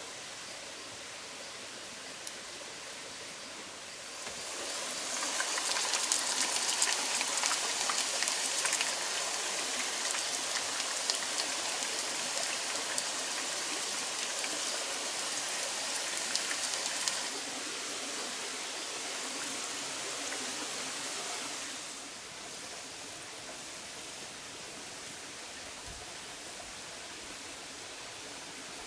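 Potatoes frying in a pan of hot oil: a loud sizzle full of sharp crackles starts about four seconds in, eases after about seventeen seconds and dies away by about twenty-two seconds. A steady hiss runs underneath throughout.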